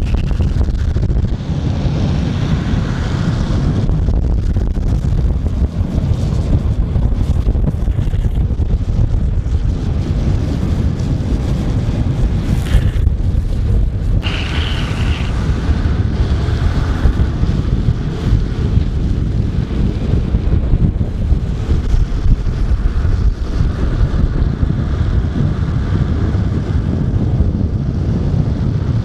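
Strong wind buffeting the microphone during a fast ride, a steady loud low rumble.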